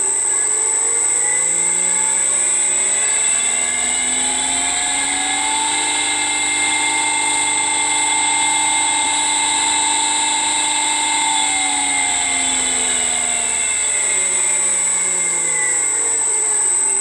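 Electric motor driven by a frequency converter (VFD), with a loud, steady high-pitched whistle. Under the whistle, the motor's hum rises in pitch as it speeds up, holds steady for several seconds, then falls as it slows down about two-thirds of the way through.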